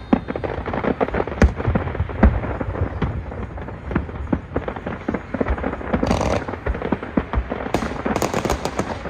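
Fireworks display: a dense run of shell bursts and bangs, with the loudest bangs about one and a half and two and a quarter seconds in, and bursts of crackling about six seconds in and again near the end.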